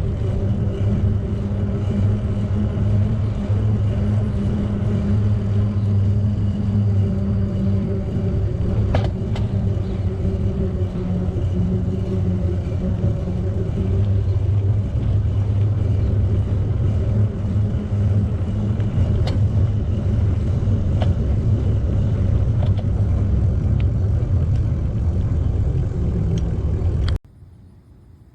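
A steady low rumble with a constant hum underneath and a few faint clicks, cutting off abruptly near the end.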